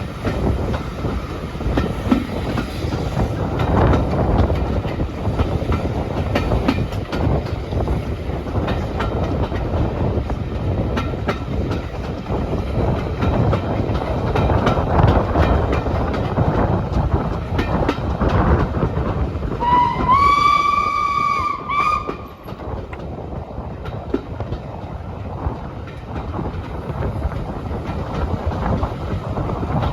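Running noise of a steam-hauled train heard from inside a carriage, the wheels knocking over rail joints. About two-thirds of the way through, the locomotive's whistle sounds once for about two seconds, its pitch rising slightly at the start.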